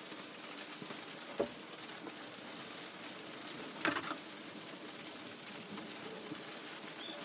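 Two light clicks, about a second and a half in and near four seconds, over a steady faint hiss: porcelain floor tiles and plastic tile spacers being handled and set.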